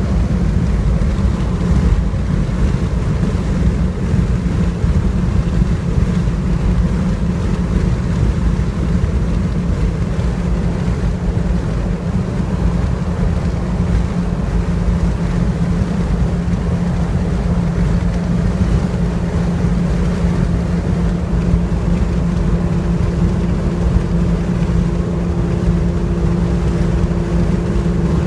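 1997 Ford Mustang SVT Cobra's 4.6-litre DOHC V8 through a Stainless Steel Systems exhaust, running at a steady engine speed on the highway with a constant low exhaust tone, over wind noise. About twenty seconds in, a second, higher steady tone joins the low one.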